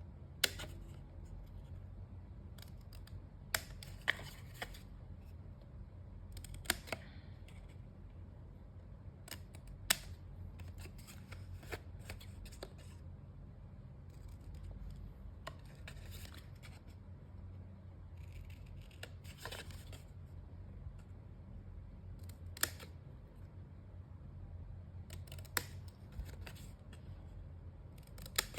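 Scissors snipping small angled cuts into cardstock flaps: short sharp snips every few seconds, over a steady low hum.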